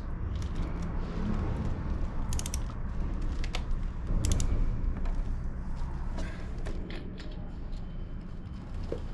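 Metal clinks and clicks of cam chest parts and tools being handled while the cam chain and sprockets are worked off, over a steady low rumble; two sharp metallic clinks stand out, about two and a half and four seconds in.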